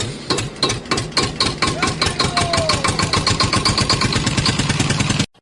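A small engine running with a rapid, even chugging of about eight to nine beats a second, cut off abruptly near the end.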